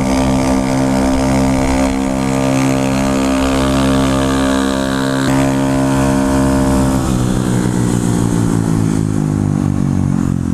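Motorcycle engine running at steady revs while under way. The revs then fall steadily over the last three seconds or so.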